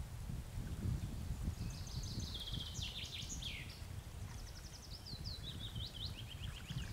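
A songbird singing a run of rapid high trills and quick down-slurred notes, starting about a second and a half in, over a steady low rumble.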